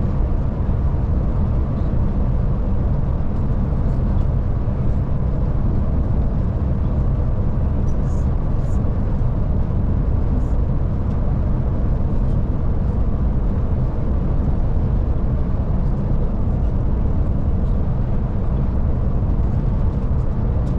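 Scania Touring coach driving along at steady speed, heard from inside the cabin: a constant low engine and road rumble, with a few faint high ticks and rattles.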